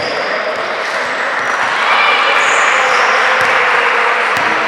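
Basketball game on an indoor court: a ball bouncing and shoes squeaking on the floor, over crowd noise in the gym that grows louder about two seconds in.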